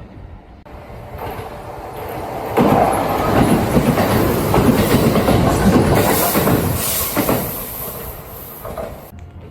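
A Kintetsu electric train passing at speed, its wheels clattering over the rail joints. It swells in, gets suddenly loud about two and a half seconds in, then fades and cuts off abruptly near the end.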